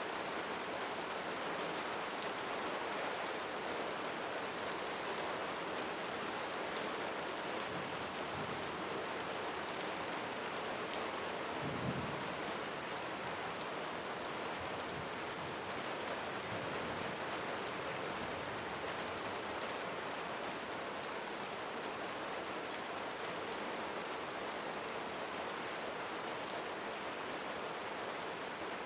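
Steady rain falling on leaves, with a brief low thump about twelve seconds in.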